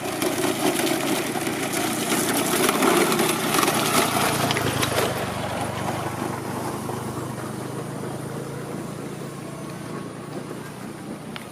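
Engine vehicle passing close by, its noise swelling to a peak a few seconds in and then fading, leaving a steady low engine hum.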